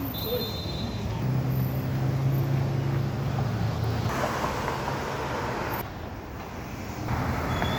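Vehicle sound: a steady low engine drone for the first few seconds, giving way to a broader rushing noise like traffic passing.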